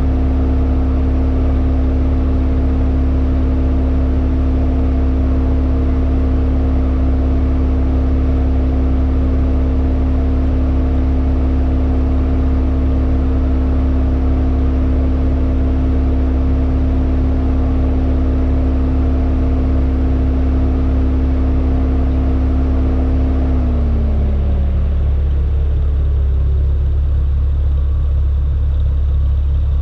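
Hyundai Elantra N's turbocharged four-cylinder engine running at a steady pitch with heavy low road and wind rumble. About three-quarters of the way through, the engine note drops in pitch as the car slows.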